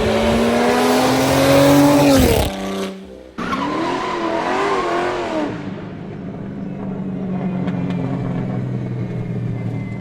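Audi RS5's twin-turbo V6 with aftermarket downpipes and exhaust, revving: the engine note climbs steadily for about two seconds and falls away. After a cut, a few quick throttle blips swing the revs up and down, and then it settles to a steady idle.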